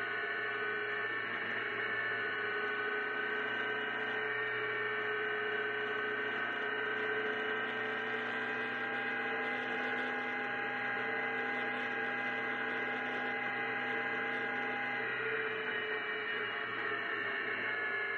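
GBS Zero kit car's engine running at a steady cruise: a continuous droning hum whose pitch drifts slowly, shifting about three-quarters of the way through.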